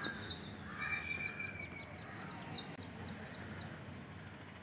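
Small birds chirping: runs of short, high, quickly falling chirps near the start and again from about two to three seconds in, with one longer whistled note about a second in.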